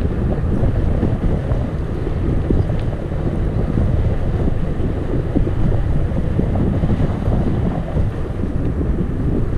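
Wind buffeting the microphone of a camera on a moving bicycle: a loud, steady low rumble that churns without any distinct events.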